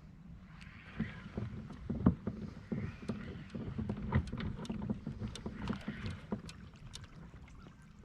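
Irregular knocks, clicks and water sloshing around a plastic fishing kayak, with a low wind rumble on the microphone.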